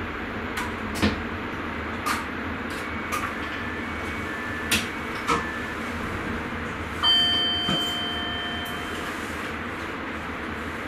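Sprinter train cab with a steady running rumble, broken by a series of sharp clicks and knocks. About seven seconds in, an electronic tone sounds for about two seconds, fading out.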